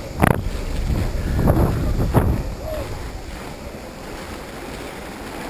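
Wind buffeting the microphone, a rough low rumble that surges in three short gusts in the first half and then eases off.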